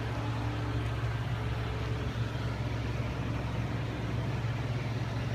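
A vehicle engine running steadily, a constant low drone with a hiss of noise over it and no change in speed.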